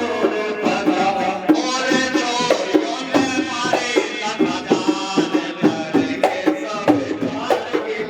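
Rasiya folk music: a wavering melody over a steady beat of dhol and hand percussion.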